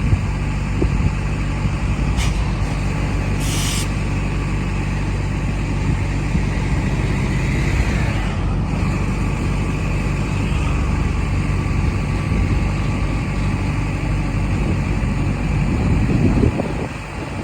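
Diesel train running steadily, with two short hisses of released air about two seconds and three and a half seconds in.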